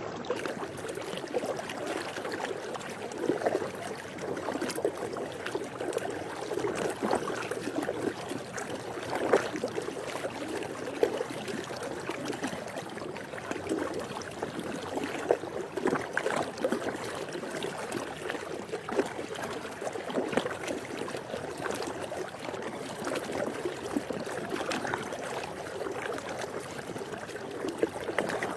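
Swimming pool water lapping and splashing steadily, with frequent small splashes and trickles.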